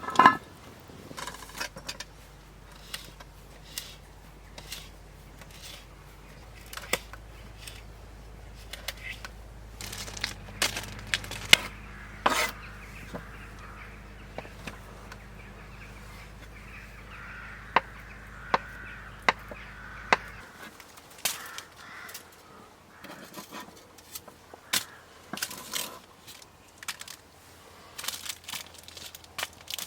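Wood campfire crackling, with scattered sharp pops, snaps and knocks, over a low steady hum that stops about twenty seconds in.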